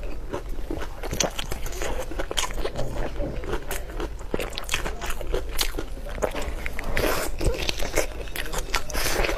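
Close-miked mouth sounds of a person chewing braised pork knuckle: a steady run of short clicks and smacks as the meat and skin are bitten and chewed.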